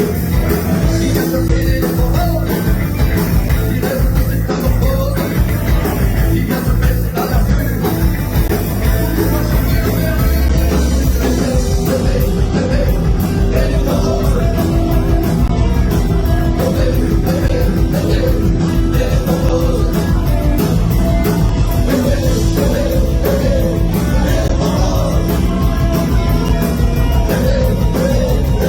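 Rock band playing live, loud and continuous, with heavy bass and drums under sustained held notes.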